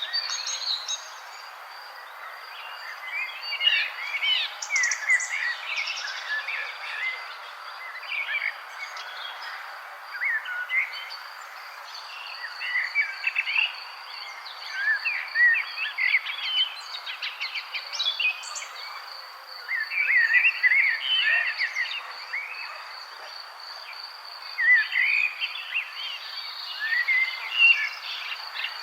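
Several songbirds chirping and trilling in short, overlapping phrases that come and go, over a steady high, finely pulsing insect trill and a constant background hiss.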